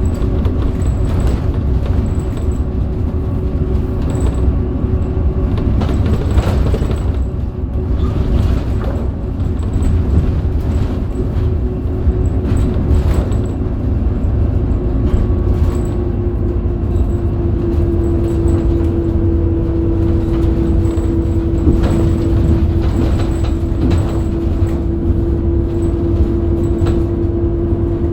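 Inside a Scania K270UB city bus on the move: the Scania DC9 five-cylinder diesel's steady low rumble, with a steady whine that grows stronger about two-thirds of the way in, and scattered rattles and knocks from the body.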